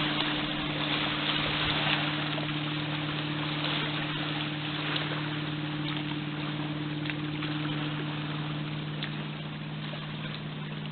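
Motorboat engine running with a steady hum that slowly fades, over the rushing noise of water from its wake.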